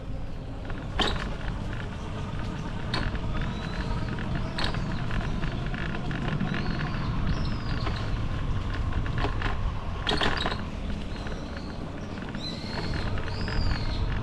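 Riding noise from a bicycle on the move: a steady low rumble of wind and rolling, with a few sharp clicks and several short, high, arching squeaks, the clearest near the end.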